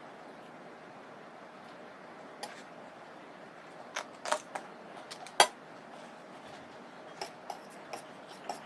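Eating sounds: scattered short, sharp clicks and smacks while noodles are eaten, the loudest about five seconds in and a few more near the end, over a steady faint hiss.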